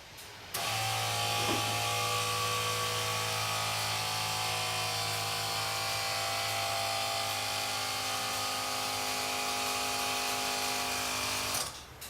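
A vehicle's electric motor whirring at a steady pitch for about eleven seconds, starting suddenly and cutting off just before the end, with no engine catching.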